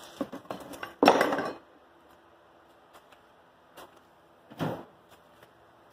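A few short knocks and a clatter of metal gear being handled, the loudest about a second in and a smaller one a little before the five-second mark; no welding arc is running.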